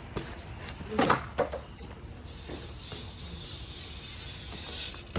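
BMX bike tyres rolling across pavement with a steady hiss that grows toward the end, after a couple of short knocks from the bike about a second in.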